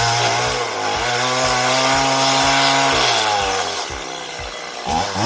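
Two-stroke chainsaw cutting into wood, its engine note dipping and steadying under load. The note falls away about four seconds in and picks up again near the end.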